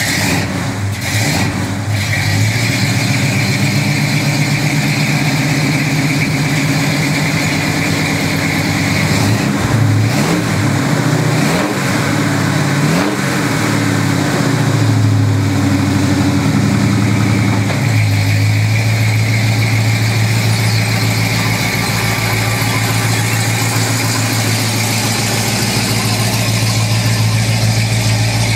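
1972 Ford Ranger XLT's 428 cubic-inch V8 with a four-barrel carburettor and dual exhaust, just started and idling, revved up and down several times through the middle before settling into a steady idle.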